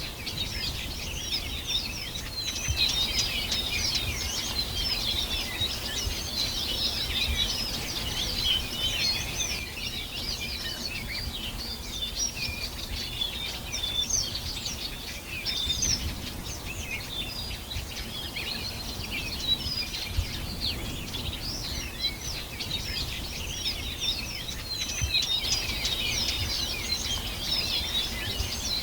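Many birds singing at once in a dense chorus of quick, high chirps and twitters, with a low rumble of background noise beneath.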